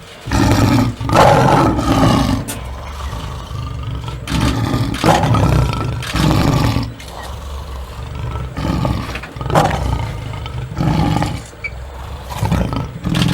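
A big cat, lion or tiger, roaring in a series of deep calls, one every second or two.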